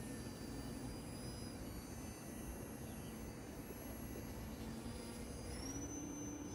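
E-flite Eratix's electric brushless motor and propeller whining in flight, the pitch shifting with the throttle and stepping up near the end.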